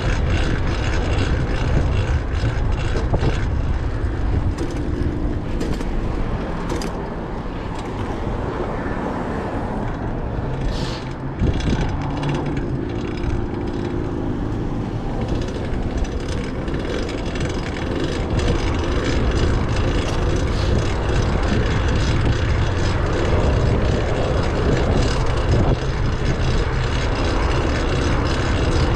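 Fixed-gear bicycle being ridden through traffic: a steady rush of wind and road noise on the microphone, with a loud drivetrain, which the rider puts down to a new cog, ticking under it. A short sharp noise comes about eleven seconds in.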